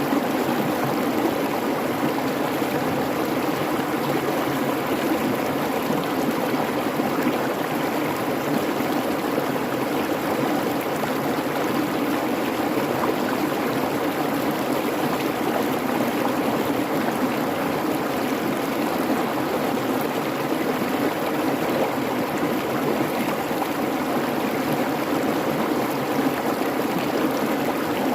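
A creek babbling and rushing over rocks, a steady, even flow of water.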